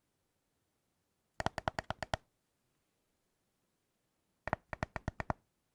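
Two quick runs of about eight taps each on a thick chocolate bar: a rapid patter about a second in and again near the end.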